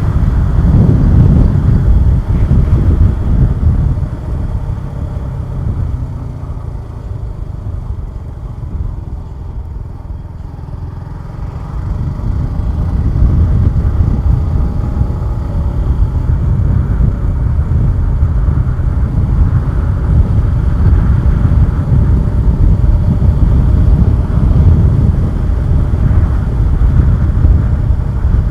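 Suzuki Gixxer 150SF single-cylinder motorcycle heard on the move with wind rumble. It goes quieter for several seconds a few seconds in, then builds back up and runs steadily to the end.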